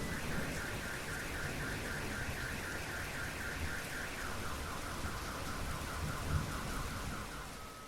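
Steady rain with a car alarm sounding through it, a warbling tone pulsing about five times a second that steps down to a lower tone about halfway through. The whole sound fades out near the end.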